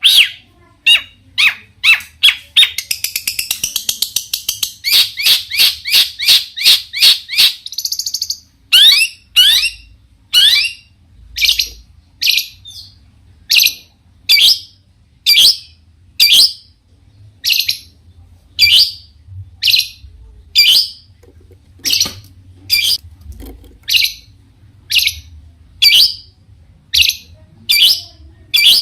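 Long-tailed shrike (cendet) singing loudly: a quick series of sharp, high notes, a fast rattling run of notes lasting several seconds, then one sharp falling call repeated about once a second.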